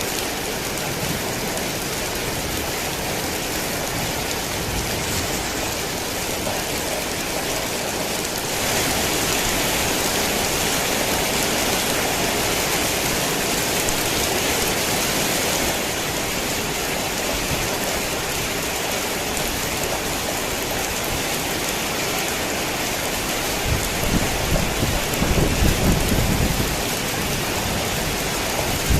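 Heavy rain falling steadily, heavier for several seconds about a third of the way in. Low thunder rumbles briefly near the end.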